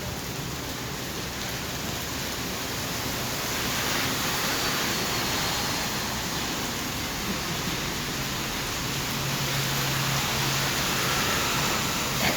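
Heavy rain falling, a steady even hiss. A faint low hum joins it for a couple of seconds past the middle.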